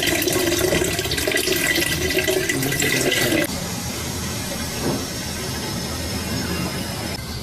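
Water running and splashing loudly, dropping suddenly to a quieter steady hiss about three and a half seconds in.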